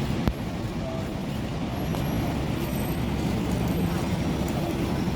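Steady low rumble of background noise, with one sharp click about a quarter of a second in.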